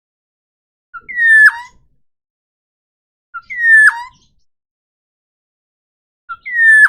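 Forest oriole (kepodang hutan) calling three times, about two and a half seconds apart. Each call is a short pip, then a falling whistled note that ends in a lower note.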